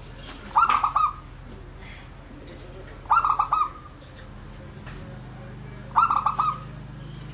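Zebra dove (perkutut) singing: three short staccato cooing phrases, each a quick run of notes lasting about half a second, repeated about every two and a half seconds.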